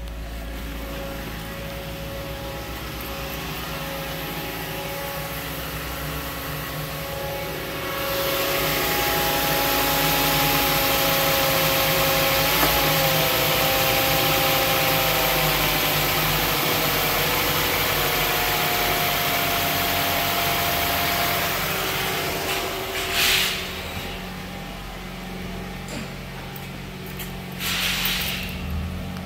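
2010 Mazda CX-7's 2.5-litre DOHC 16-valve four-cylinder engine running at idle, with a faint whine whose pitch drifts a little. It is louder and hissier from about eight to twenty-two seconds in, heard close over the engine bay, and two short whooshes come near the end.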